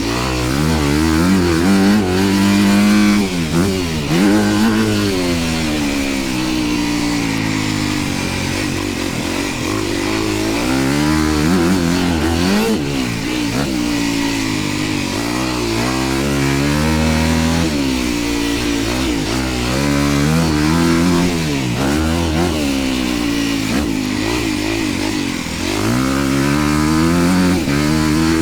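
Dirt bike engine revving and easing off again and again, its pitch climbing and dropping every second or two as the throttle is worked around a motocross track.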